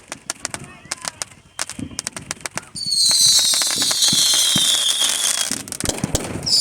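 Fireworks: a quick string of crackling pops, then, a little under halfway through, a loud shrill whistle of several tones together that slides slowly down in pitch for nearly three seconds, followed by a few more pops near the end.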